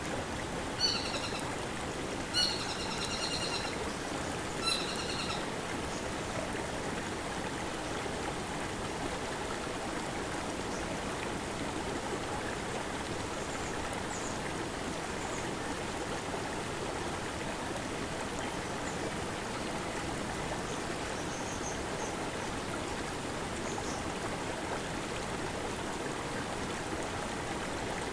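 A small forest stream flowing and babbling steadily over boulders. A bird gives short calls three times in the first five seconds, with fainter high calls later.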